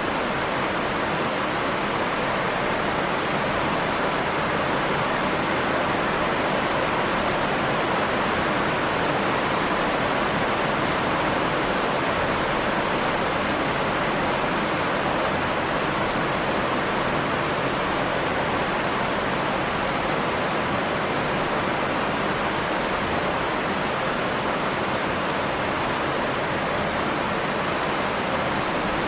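Steady rain falling, an even unbroken hiss with no single drops, thunder or other events standing out.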